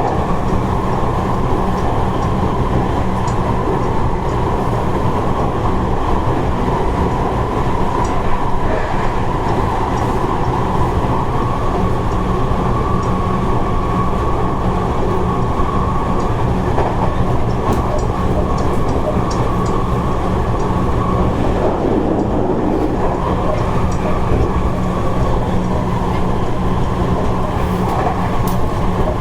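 Seibu 30000 series electric train running at speed, heard from inside the passenger car: a steady motor hum over rolling noise, with light clicks from the wheels over the rail. The higher part of the hum fades a little past the middle and comes back about two seconds later.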